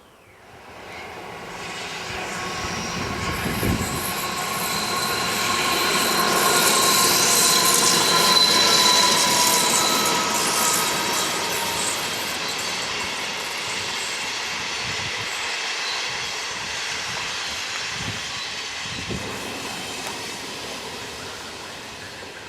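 A train passing along the rails: rushing wheel-and-rail noise with a high steady whine. It builds about half a second in, is loudest near the middle and slowly fades away.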